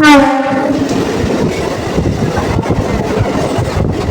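Suburban electric train running, its wheels clattering on the rails. It opens with a loud horn blast of about a second that falls slightly in pitch.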